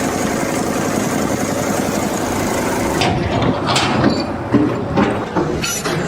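A machine running with a steady, dense noise that cuts off suddenly about three seconds in, followed by scattered knocks and clatter.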